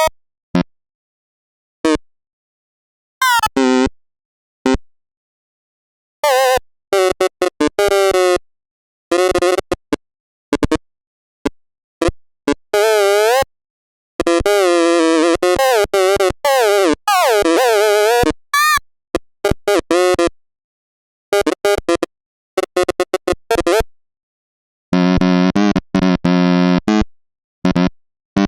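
Chopped-up, stuttering synthesized tones: short pitched fragments that cut in and out abruptly with dead silence between them. In the middle a longer stretch wavers up and down in pitch, and near the end a buzzy low chord comes in.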